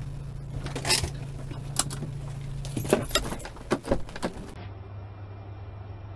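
Inside a moving car: a steady low engine and road hum with several sharp clicks and clinks from the cabin. About two-thirds of the way through it cuts to another recording with a steady, duller road noise.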